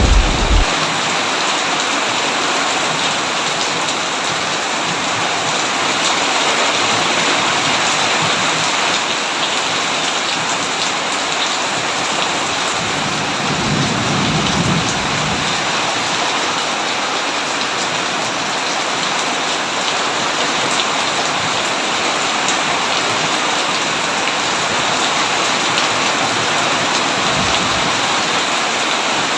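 Heavy, steady rain drumming on a tin roof. A low rumble of distant thunder swells and fades about halfway through.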